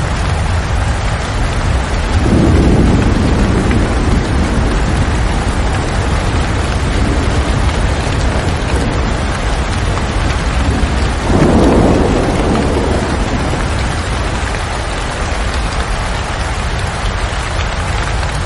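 Steady rain falling outside a window, a dense even hiss, with two brief low rumbles, about two seconds in and again about eleven seconds in.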